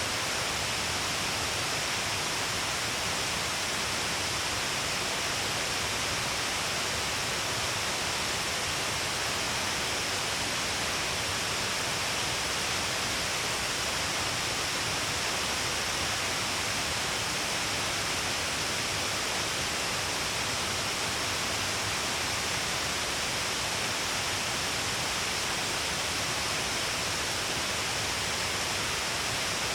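Shiraito Falls, many streams pouring down along a cliff face, giving a steady, unbroken rush of falling water.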